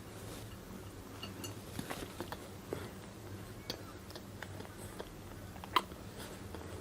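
A person chewing food close to the microphone: soft, scattered mouth clicks and bites over a faint low hum, with one sharper click a little before the end.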